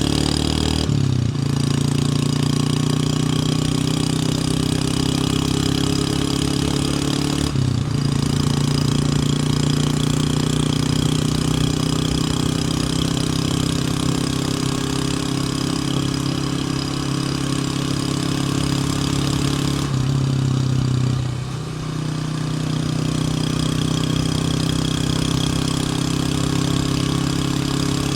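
Motorcycle engine running while riding, its pitch slowly climbing, with brief breaks about a second in and about eight seconds in, typical of gear changes. It eases off for a moment about twenty-one seconds in, over a steady rush of wind and road noise.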